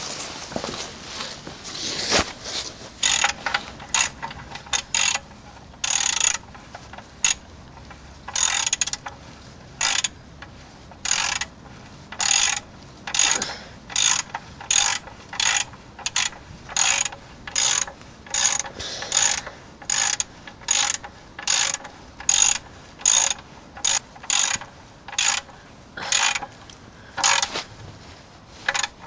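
Ratchet wrench clicking in short repeated strokes, about one a second, as the sump plug of a Perkins 4.203 diesel is screwed back in.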